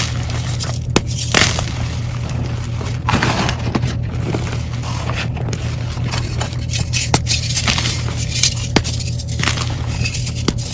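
Dyed gym chalk crushed and crumbled, a continuous crackle broken by frequent sharp crunches, over a steady low hum.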